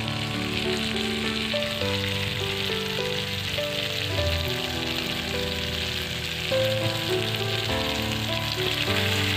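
Chicken pieces sizzling as they fry in masala in a metal pan, a steady hiss. Background music plays over it, with held notes that change every second or two.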